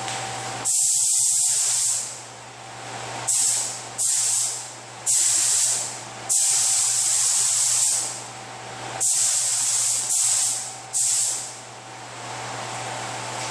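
Paint spray gun triggered in eight hissing blasts, each from half a second to about a second and a half long and tailing off on release, over a steady low hum.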